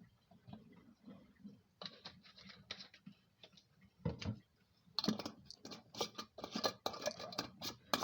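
Glass mason jar being handled: faint scrapes and taps, one knock about four seconds in, then a quick run of clicks and scrapes from about five seconds in.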